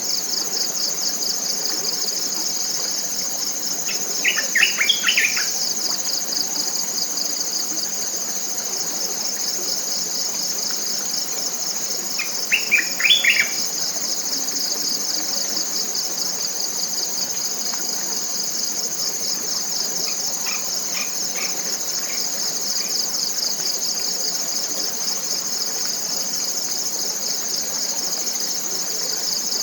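Steady high-pitched, rapidly pulsing chorus of forest insects, with a wild bird's short burst of calls about four seconds in, another about thirteen seconds in, and fainter calls around twenty seconds in.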